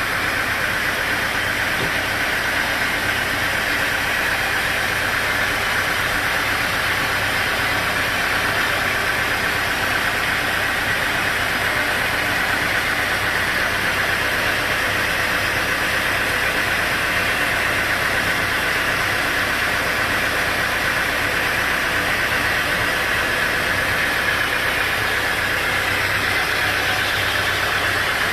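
Sawmill machinery running steadily: a continuous engine-like drone with a strong hiss over it, unbroken throughout.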